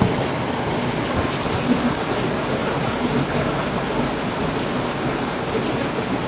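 Heavy rain falling steadily, a dense even hiss with scattered louder drop impacts.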